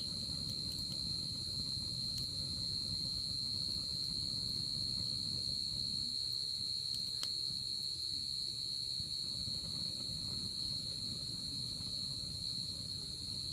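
Night insects trilling in one steady, unbroken high-pitched chorus over the low rustle of a wood fire burning in a fire pit, with a single sharp pop from the fire about seven seconds in.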